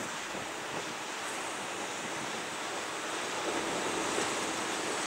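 PKP ET22 electric locomotive hauling loaded coal wagons, approaching: a steady rushing rumble that slowly grows louder as the train draws nearer.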